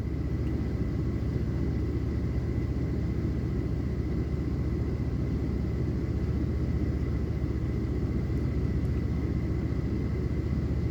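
A steady low hum, with a faint high whine held on one pitch above it; no thunder or other sudden sound is heard.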